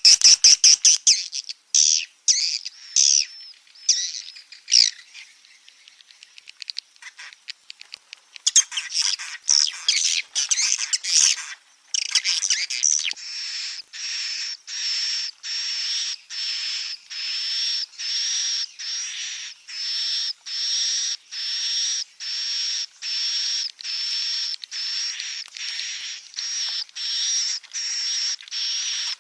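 Recorded swiftlet calls used as a roosting lure ('inap' sound). Irregular chirps and twitters come first, then from about halfway a steady run of evenly repeated call notes, about three every two seconds.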